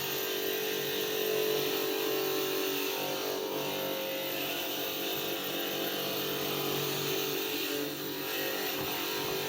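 Electric glass grinder grinding glass: a steady motor hum with a continuous high grinding hiss.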